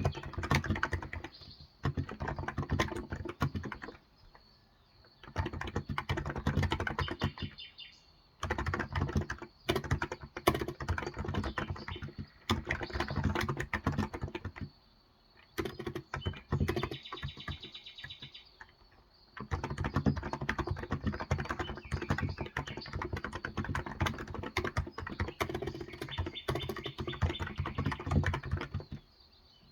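Fast typing on a Cox Endeavor electrostatic-capacitive (contactless) tenkeyless keyboard with 35 g keys: dense runs of key strokes that stop briefly several times.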